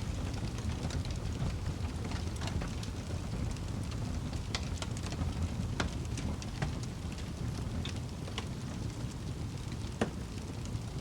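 Fire in a fireplace crackling: a steady low rumble of flames with irregular sharp pops and snaps, the loudest about ten seconds in.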